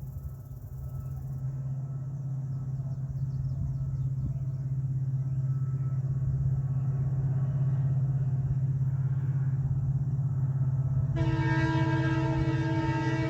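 WDP-4B diesel locomotive hauling a passenger train, its steady low engine drone growing louder as it approaches. About 11 seconds in, the locomotive's horn sounds once, held for about two and a half seconds.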